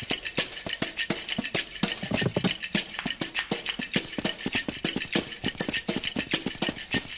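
Rapid, uneven clicking and tapping, several sharp clicks a second.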